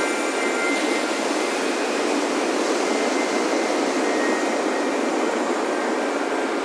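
Ocean surf washing steadily onto a beach, a continuous rushing with no pauses, with faint wind chime tones ringing above it.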